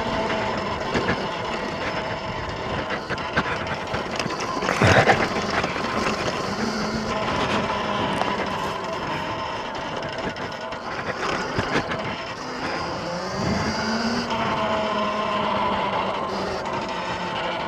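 X Pro dirt bike's engine running while being ridden on a trail, its pitch rising and falling with the throttle. A short loud thump about five seconds in.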